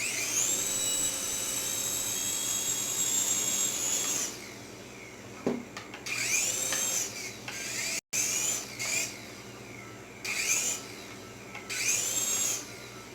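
Small electric rotor motors of a Syma Speed S5 toy helicopter whining. The motors rise to a steady high whine for about four seconds, then are throttled up and down in four short bursts, with a brief dropout near the middle.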